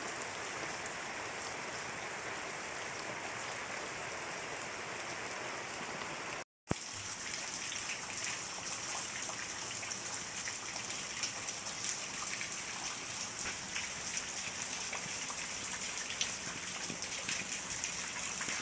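Steady rain falling, a hiss with a brief cut to silence about six and a half seconds in; after the cut, individual drops tick sharply over the hiss.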